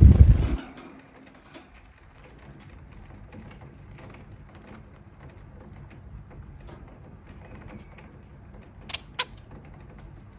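A loud, low thump right at the start, then faint steady noise with scattered small clicks and creaks, and two sharp clicks about nine seconds in.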